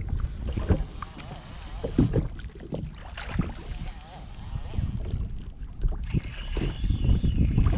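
Wind buffeting the microphone on an ocean fishing kayak, with water against the hull and scattered knocks.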